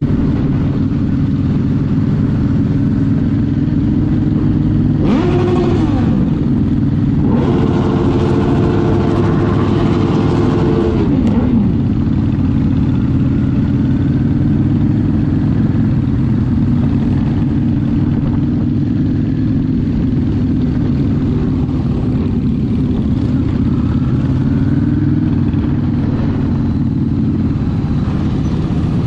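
Sport motorcycle engine running under way with a steady low drone; about five seconds in the revs briefly climb to a higher note and fall away, and from about seven to eleven seconds a longer higher-revving stretch drops back down.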